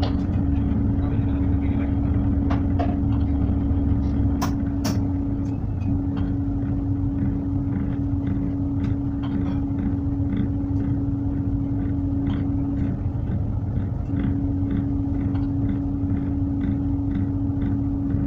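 Tugboat's diesel engine running steadily, a deep rumble with a constant hum over it. About four seconds in the lowest rumble eases off, and two sharp clicks follow close together.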